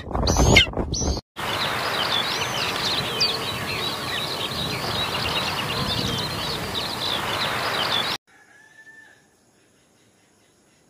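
Loud pitched animal calls end about a second in. After a cut, many birds chirp densely over a steady hiss, until the sound stops abruptly about eight seconds in.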